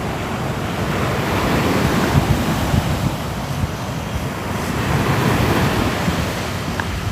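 Ocean waves breaking and washing on a shore, a steady surf noise that swells and eases slowly, with wind.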